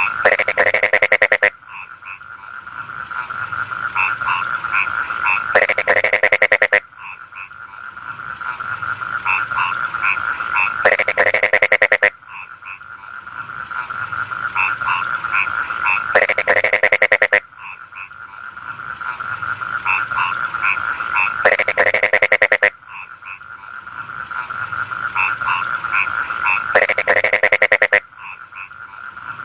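Chorus of rice-field frogs. Six times, about every five seconds, a loud rapid pulsing croak lasts about a second and a half. Between these, shorter repeated calls build up over a steady chorus with a high-pitched drone.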